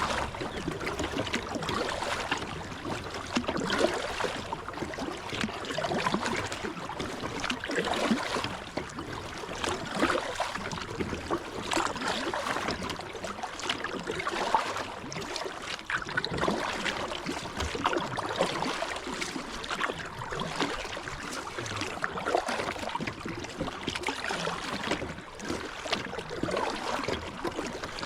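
Kayak paddle strokes splashing in a fast river current, with water gurgling and rushing around the kayak's hull in irregular swells.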